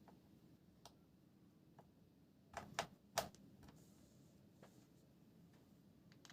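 Faint, scattered clicks and taps of hands working a laptop, with three louder clicks close together about two and a half to three seconds in.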